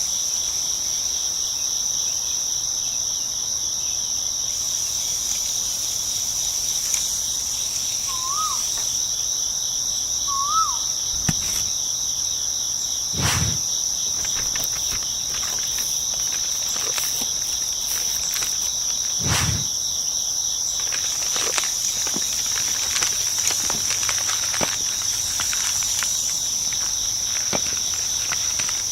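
Steady, high-pitched insect chorus of crickets with no breaks, over scattered light taps and clicks and two dull thumps around the middle. Two short whistled notes come about a third of the way in.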